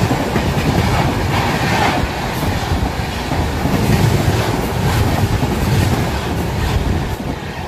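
Passenger train running along the track: a steady rumble of the coach with the clickety-clack of its wheels over the rails, easing slightly near the end.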